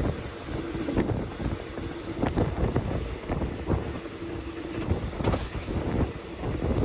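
Wind buffeting the microphone of a phone held out of a moving train's window, over the steady rumble of the train running along the track, with frequent irregular knocks from the wheels on the rails.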